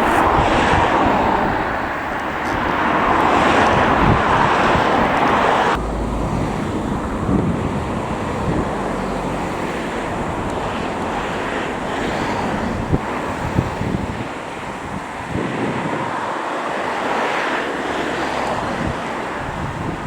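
Wind buffeting the microphone over the rushing sound of an aircraft. The noise is loudest at first and drops off suddenly about six seconds in, leaving mostly gusty wind rumble.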